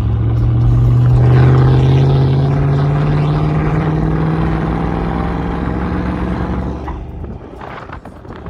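Truck engine pulling under load on the throttle, its note climbing steadily and then holding for several seconds before it falls away about seven seconds in as the throttle eases off.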